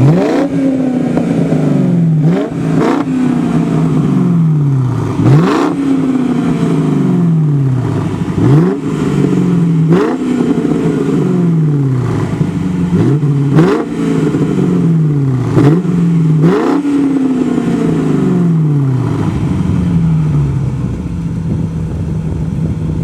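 BMW E60 545i's V8 blipped through Cherry Bomb glasspack mufflers. There are about a dozen quick revs, each climbing sharply and falling slowly back to idle. It settles into a steady idle near the end.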